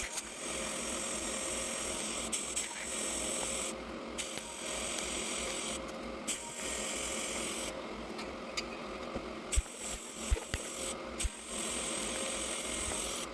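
Electric welding arc buzzing and crackling on a cast-iron engine block, laid down in runs of a couple of seconds with short breaks between them, and a few sharp clicks in the second half.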